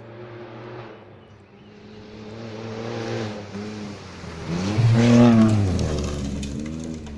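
Rally car at full throttle, its engine growing louder and changing pitch through gear shifts as it approaches. It passes close about five seconds in, and the engine note drops as it moves away.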